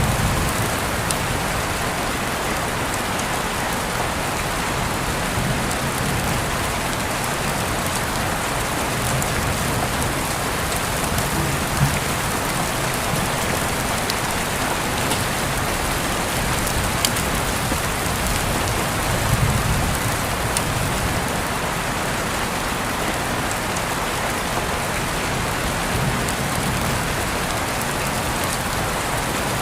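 Steady rainfall, an even hiss of rain with a few sharper single drop ticks.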